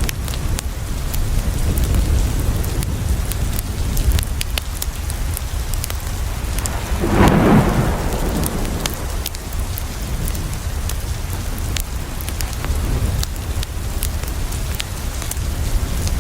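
Steady rain with a deep low rumble and many sharp ticks of drops, and a roll of thunder swelling about seven seconds in and dying away over a second or two.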